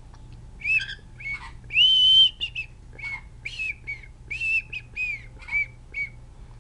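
Cockatiel whistling a song: a string of short whistled notes, several sliding up or down, with one longer held note about two seconds in.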